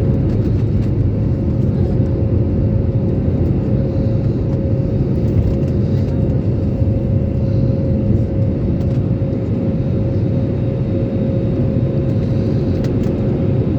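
Airliner engine noise during the climb after take-off: a steady, loud low rumble with a constant hum-like tone above it, unchanging throughout.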